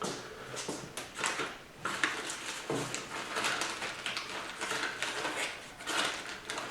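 Small transmission parts being handled and set down on a work surface: an irregular string of light clicks, taps and rustles.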